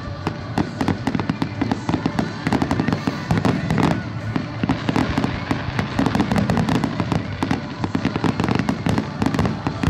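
Fireworks going off in a dense, unbroken barrage, many bangs and crackles a second.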